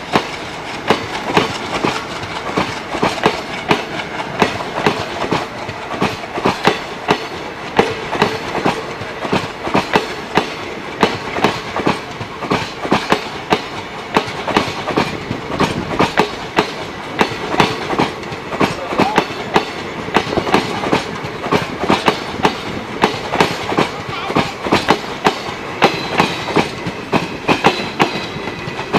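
Indian Railways express passenger coaches rolling past close by as the train departs, their wheels clicking steadily over the rail joints in a continuous clickety-clack.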